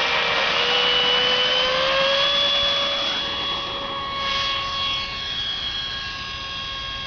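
Model airplane's motor and propeller running at full throttle on takeoff: a steady high-pitched whine that edges up in pitch over the first couple of seconds, then holds and fades gradually as the plane climbs away.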